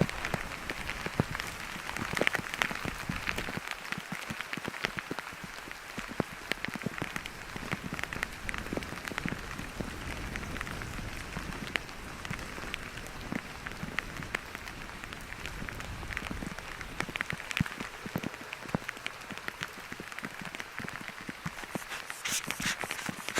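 Steady rain falling, with many individual drops ticking close by throughout.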